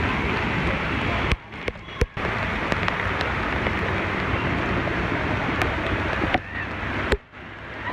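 Steady rushing noise of heavy monsoon rain and water, broken by two sudden drops in level: briefly just after a second in, and again for the last second or so.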